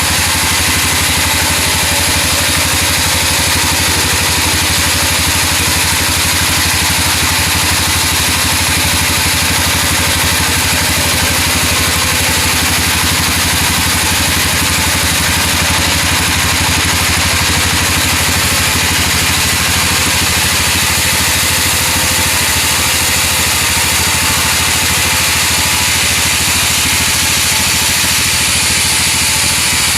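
Engine-driven sawmill machinery running steadily: a constant low engine drone under an even hiss, with no change in pace.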